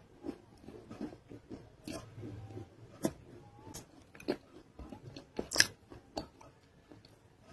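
Biting and chewing a non-roasted nakumatt clay roll: dry, sharp crunches about once a second, the loudest about five and a half seconds in.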